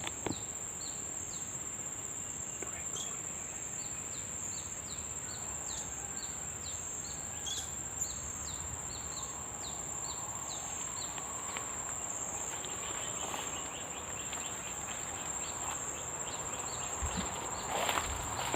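A steady high-pitched insect drone with a run of short, high, falling bird chirps about twice a second, fading out after about twelve seconds. A brief rustle comes near the end.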